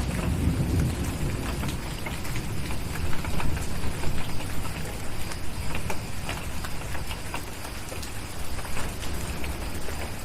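Steady rain with scattered sharp crackles, from a fireplace fire or drops. A low thunder rumble fades out in the first second or so.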